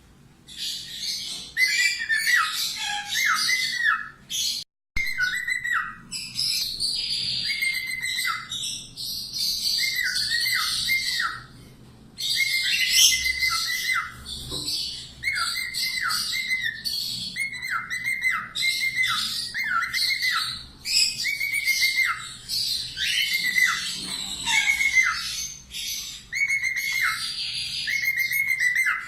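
Parakeet chattering, giving short chirpy calls that drop in pitch, in quick clusters repeated every second or two.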